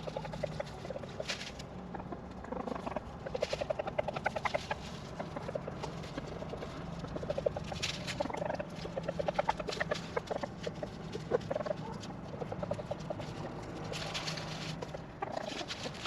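Chickens clucking and calling in short repeated bursts, several birds at once, over a steady low hum.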